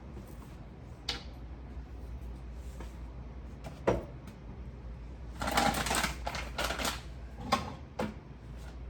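Scattered knocks and clicks of items and fittings being handled while a refrigerator is cleaned out, with a stretch of scraping noise about five seconds in and a sharp knock about four seconds in.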